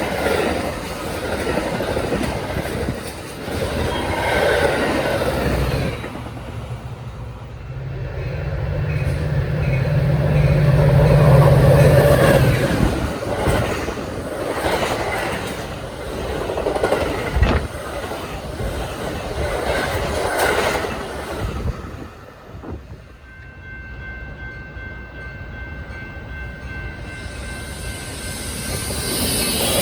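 Train passing close by, its wheels clattering over the rails and a low engine drone swelling and fading, with a thin steady wheel squeal about three-quarters of the way through.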